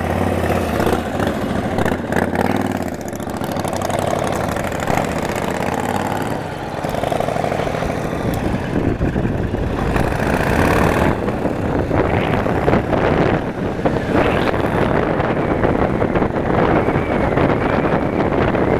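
Yamaha motorcycle engine running steadily, first at idle, then riding off, with wind buffeting the microphone increasingly over the second half.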